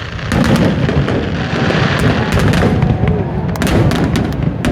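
Aerial fireworks bursting in quick succession. Sharp cracks ride over a dense, continuous rumble of booms and crackle that starts about a third of a second in.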